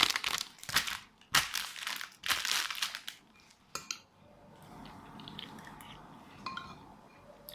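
Packaging crinkling as it is handled, in several quick noisy bursts over the first three seconds, then a quieter stretch with a sharp click and a few light clinks.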